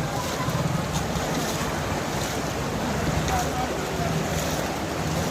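Steady rush of monsoon water, with wind buffeting the microphone.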